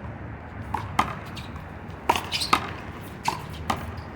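One-wall handball rally: a run of sharp, irregular smacks as the small rubber ball is slapped by hand, hits the wall and bounces on the court, about seven hits, the loudest about two and two and a half seconds in.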